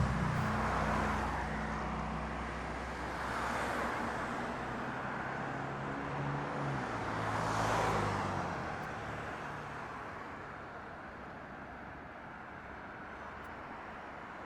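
Road traffic: several vehicles pass one after another, each a swelling hiss that fades, over a low engine hum that dies away about halfway through; the sound then settles to a quieter background rumble.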